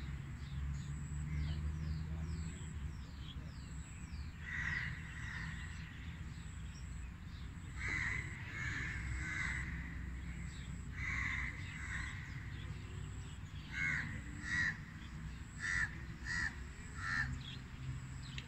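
Birds calling from the trees: short calls repeated, often in pairs, over a low steady rumble. Quick falling chirps from other birds come through in the first few seconds.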